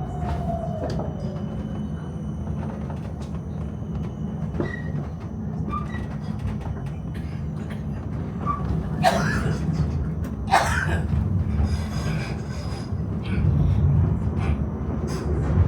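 Melbourne tram running along its rails, heard inside the car: a steady low rumble with a few brief high wheel squeaks. Louder harsh rattling bursts come about nine and ten and a half seconds in.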